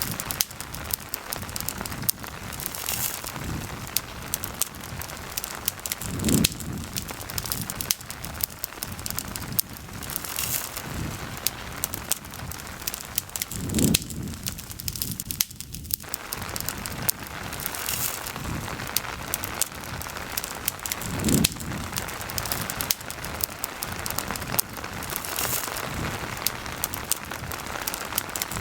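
Steady rain with a campfire crackling through it, many small sharp pops over the hiss. A soft low thump comes about every seven seconds.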